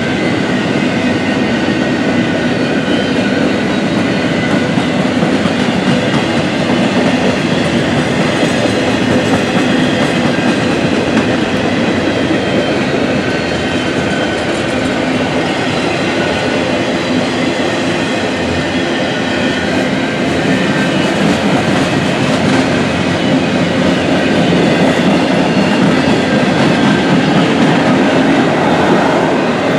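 Norfolk Southern freight train rolling past: a steady, loud rumble of wheels on rail, with faint high-pitched wheel squeal.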